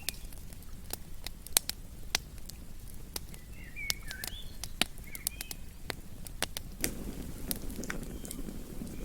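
Campfire crackling, with irregular sharp pops and snaps over a low steady rumble. A few short chirps come in around the middle.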